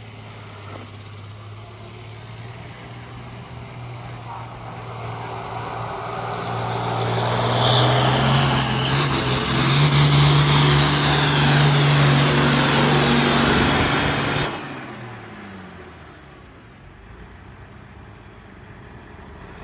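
Hot farm pulling tractor's diesel engine at full throttle during a pull down the track, growing louder over several seconds and staying loud for about six seconds before it is shut off abruptly about two-thirds of the way through.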